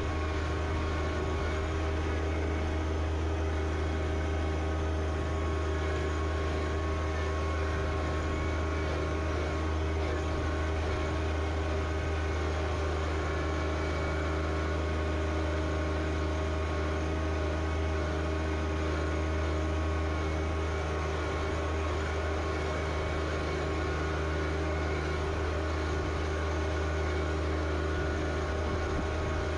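John Deere 1025R compact tractor's three-cylinder diesel engine running at a steady speed: a steady low drone with a few constant whining tones on top, unchanging throughout.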